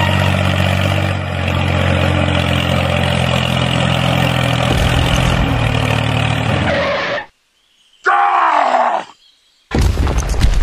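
An engine running steadily, cut off abruptly about seven seconds in. After a moment of silence comes a short groan-like sound that rises and falls in pitch, another gap, then a loud rattling mechanical sound with rapid clicks near the end.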